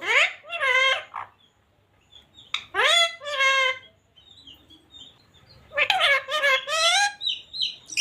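Parrot talking: three short, high-pitched, speech-like phrases with swooping pitch, with a few brief high chirps between them.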